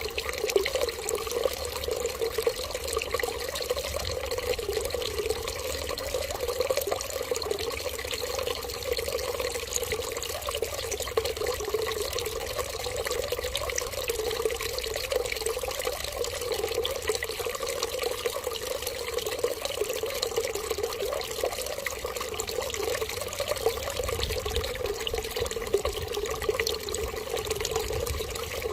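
Steady stream of running water, continuous and unchanging.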